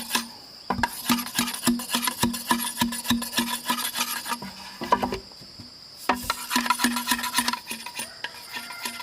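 A hand tool striking repeatedly, about two blows a second, each with a short low ringing note, pausing briefly twice. Insects, likely crickets, keep up a steady high trill throughout.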